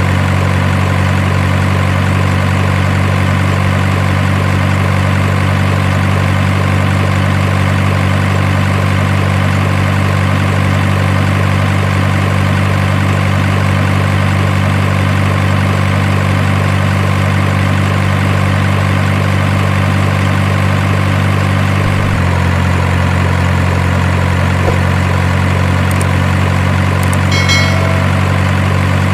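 Truck engine idling with a very steady low hum, which changes slightly in tone about three-quarters of the way through.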